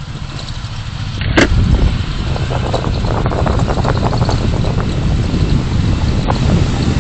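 Car on the move: steady engine and road rumble, with a sharp knock about a second and a half in, followed by a few seconds of light clicking rattles.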